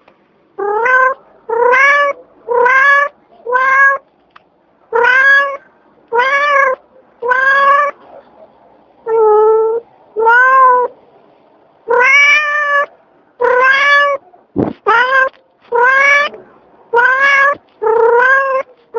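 Domestic cat meowing over and over, some seventeen short, loud meows in a row, each bending slightly up then down in pitch. A brief sharp click is heard near the three-quarter mark.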